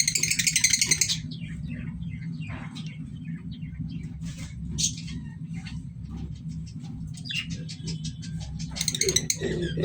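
Pet parrots chattering and chirping: a loud burst of rapid, harsh calls at the start, scattered short chirps in between, and another loud burst just before the end, over a steady low hum.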